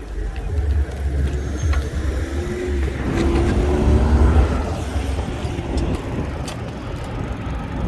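Wind rumbling on the microphone while riding, with a motor vehicle passing close by, loudest about four seconds in.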